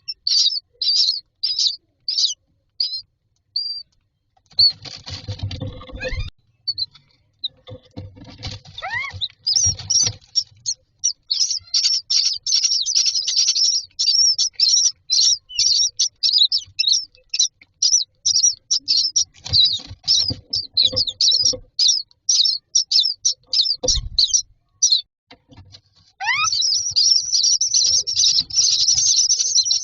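Common myna chicks in a nest box begging: short high-pitched calls repeated several times a second, with a few low thumps and rustles. Near the end the calling becomes a continuous din.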